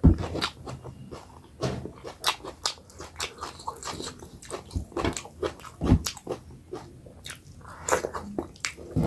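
Close-miked eating sounds: a person chewing and lip-smacking, with many irregular wet mouth clicks.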